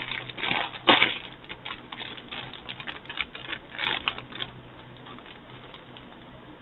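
A potato chip bag being pulled open, crinkling and crackling in a dense run of clicks for about four seconds, then only faint rustles.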